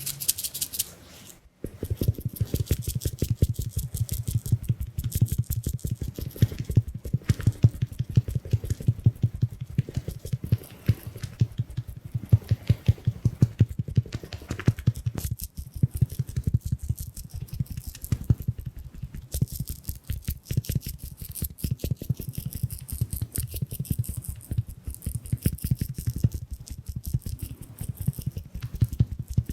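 Mini makeup puff sponge patting rapidly, many soft pats layered together, starting about a second and a half in.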